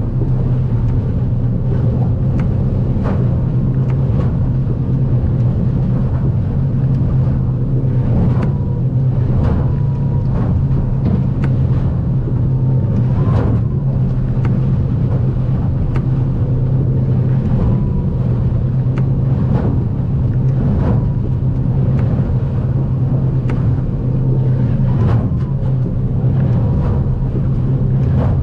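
The outboard-powered Stabicraft 2050 Supercab aluminium boat running steadily through rough water with a low, even engine drone. Irregular sharp knocks come every second or two as the hull meets the swells.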